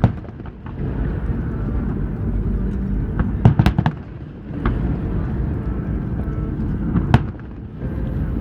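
Fireworks shells bursting in sharp bangs: one at the start, a quick cluster of three or four about halfway through, and single bangs later on, over a steady low rumble.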